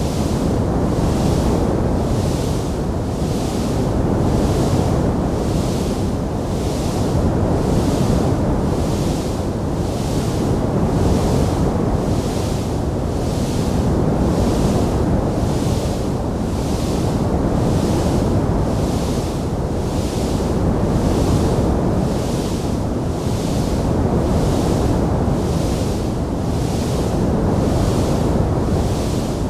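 Steady, deep rushing noise of a fire soundtrack, swelling gently every few seconds, with a fainter hiss that pulses evenly about once a second. No distinct crackles or pops stand out.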